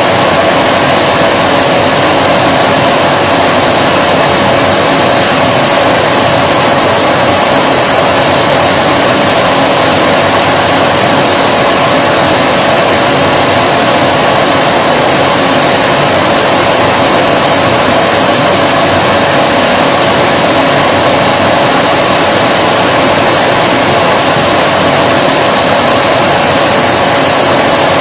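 Vacuum cleaner running steadily: a loud, unchanging rush of air with a steady motor whine in it.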